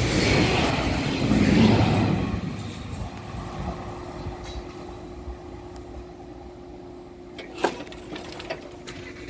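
A train passing the level crossing, its rumble peaking in the first two seconds and then fading away. After that comes a quieter steady hum with a short knock near the end.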